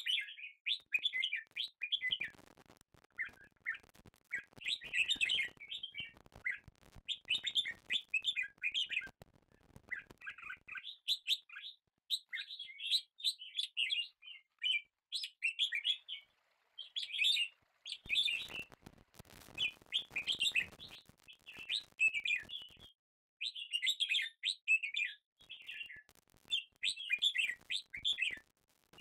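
Birds chirping busily in quick runs of high notes with short pauses. Faint knocks sound underneath in two stretches, early and again past the middle.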